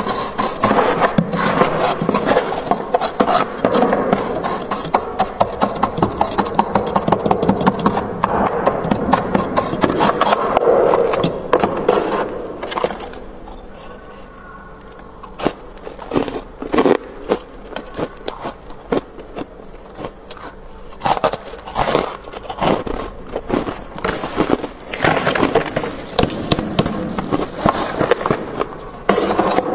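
Frost being scraped off the inside of a freezer: rapid, rough scraping strokes, nearly continuous for the first dozen seconds, then a quieter stretch, then more scattered scrapes and crunches.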